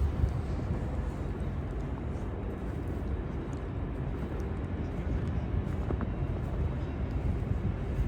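Steady low rumble of street traffic, the ongoing hum of a city street.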